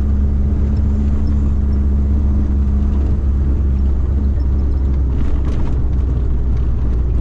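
Steady low rumble of a motor vehicle driving, engine and road noise heard from inside the cabin, with a steady low hum.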